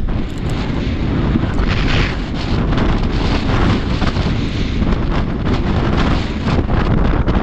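Wind buffeting the microphone: a loud, unpitched rumble, heaviest in the low end, swelling and easing in gusts.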